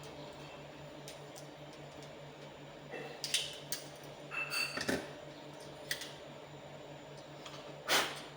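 Handling of small hard parts: a cluster of light clicks and clatter, a single click, then one louder knock near the end, over a steady low hum.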